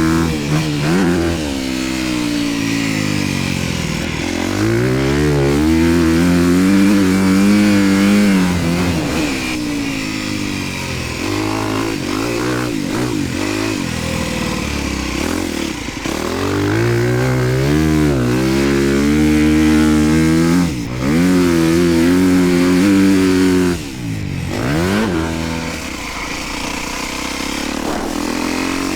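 Honda motocross dirt bike's engine on the track, repeatedly revving up and falling off as the throttle is worked through the gears, with a couple of brief sharp throttle cuts about two-thirds through.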